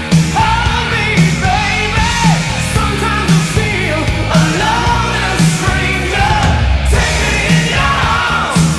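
Hard rock song with a steady drum beat about once a second, electric guitars and a male lead vocal.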